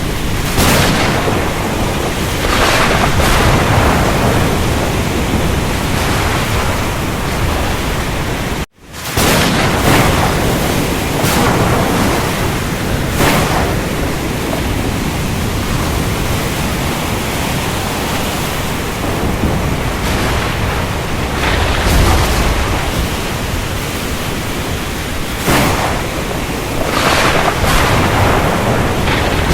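Ocean storm soundscape: a steady, dense rush of rain and surf with waves surging every few seconds. About nine seconds in the sound cuts out for a split second and comes straight back.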